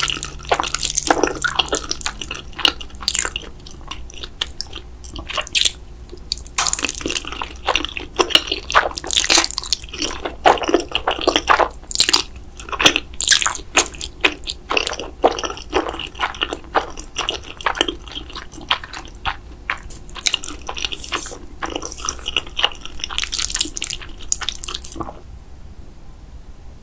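Close-miked eating sounds: a person repeatedly biting and chewing cheesy noodles and mozzarella sticks, with crunchy bites and wet chewing in irregular bursts. The eating stops near the end.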